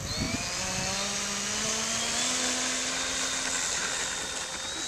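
Electric motor and propeller of an Art-Tech Cessna 182 RC model plane running under power, a steady whine whose pitch rises a little in the first second or so and then holds.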